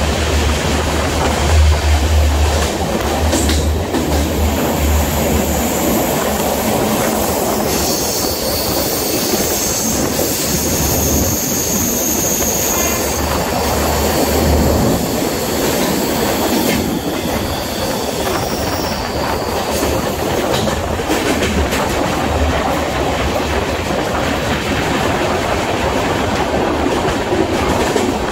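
Passenger train running at speed, heard from an open coach doorway: a steady rumble and clatter of wheels on the track, with a high wheel squeal from about eight seconds in to about fifteen seconds.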